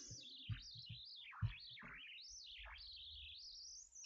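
Faint bird song: a continuous warbling run of quick rising and falling whistles, with a couple of soft clicks about half a second and a second and a half in.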